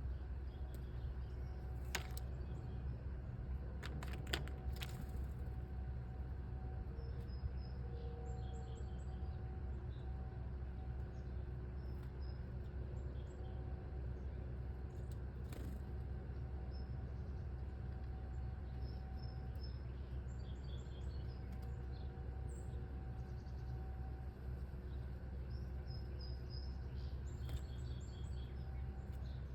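Faint, scattered chirps of small birds over a steady low rumble, with a few sharp clicks in the first five seconds.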